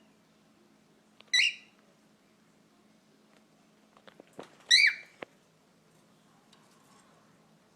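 A pet bird gives two short, high, wavering chirps about three seconds apart, with a few sharp clicks around the second one.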